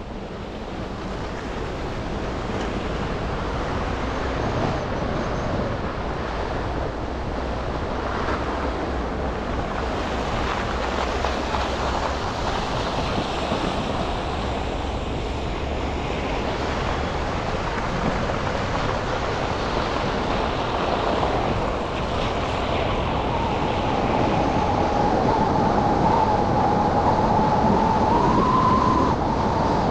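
Steady road noise of a car driving on wet, slushy city streets: an even hiss of tyres on wet pavement with traffic around it, fading up over the first few seconds. A steady high whine joins in near the end.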